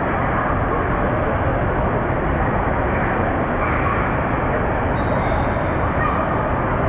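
Steady, loud wash of rushing and splashing water in an indoor waterpark pool hall, with no break or change.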